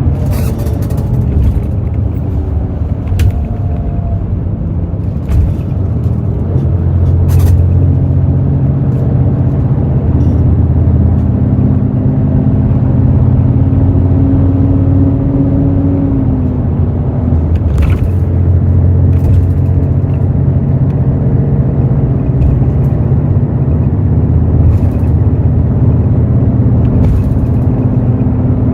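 Hino J08E-VD inline-six diesel engine of a Hino RN8JSVU intercity bus running under way, a steady low rumble. Its note rises slowly and drops at about sixteen seconds in, over a few short rattles and clicks.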